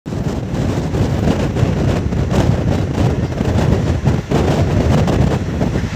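Passenger train coach running at speed: a steady heavy rumble of wheels on the rails, with wind buffeting the microphone at the open door.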